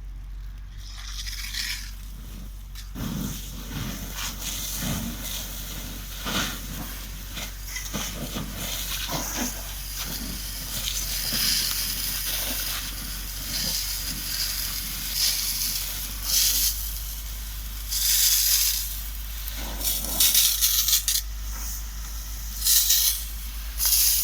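Hissing and crackling noise of a forest fire being put out, with irregular louder surges.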